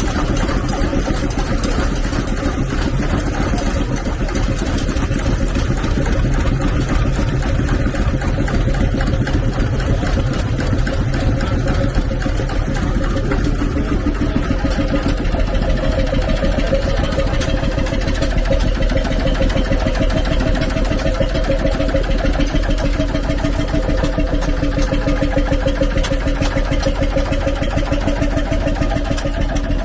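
Stationary engine running steadily at an even speed.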